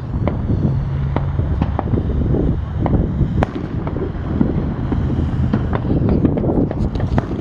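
Consumer fireworks going off in a rapid run of sharp crackles and pops, with wind buffeting the microphone as a steady low rumble.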